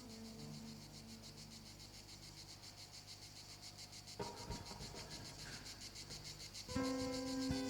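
Cicada song, a steady, rapidly pulsing high buzz, sounding as part of an electroacoustic drone piece. Faint held drone tones sit underneath; guitar notes come in about four seconds in, and a louder sustained chord near the end.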